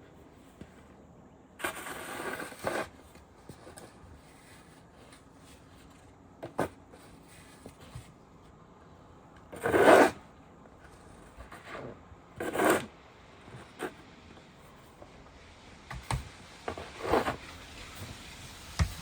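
A few separate scraping and rubbing noises, each lasting about half a second to a second, over a low steady background; the loudest comes about halfway through.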